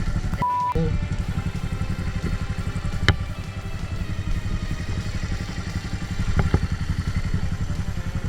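Motorcycle engine idling with a steady, fast low pulsing. A short, high single-pitched beep sounds about half a second in, and a sharp click comes about three seconds in.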